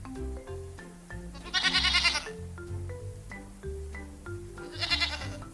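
A goat bleating twice, over background music with a bass line and short melody notes. The first bleat, about one and a half seconds in, is long and wavering. The second, near the end, is shorter and fainter.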